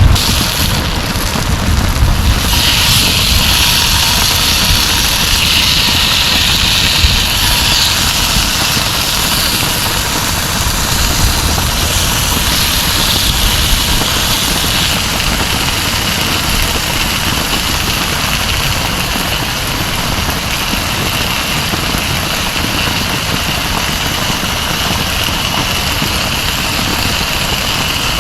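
Heavy rain falling steadily. A low rumble fades out over the first couple of seconds.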